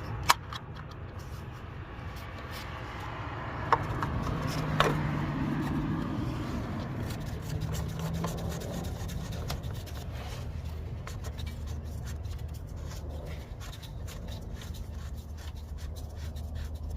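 Hands fitting a new cartridge oil filter element onto its canister cap: light scraping and rubbing, with three sharp clicks in the first five seconds, over a low steady hum.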